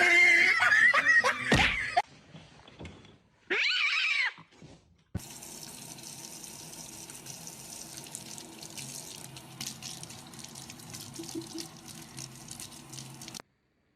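A loud wavering cry in the first two seconds and a single rising-then-falling call a few seconds in, then a steady splash of running water for about eight seconds that cuts off abruptly.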